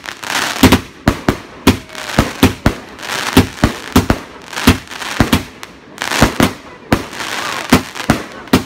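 Fireworks going off in quick succession: a run of sharp bangs, about two or three a second and irregularly spaced, with a crackling hiss between them.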